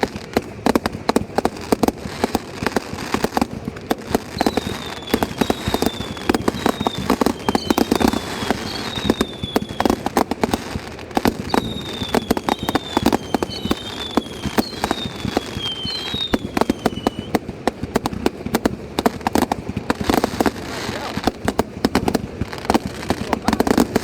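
Fireworks display: a dense run of bangs and crackling throughout. In the middle stretch there is a series of short whistles, each falling in pitch.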